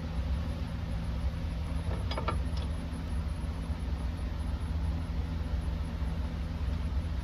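Steady low hum of an engine idling, even and unchanging, with a short run of small metallic clicks about two seconds in.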